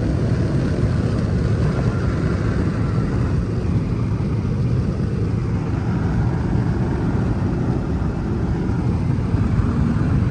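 Steady low rumble of a Dodge Hellcat Redeye's supercharged 6.2-litre HEMI V8 and road noise, heard from inside the cabin while cruising.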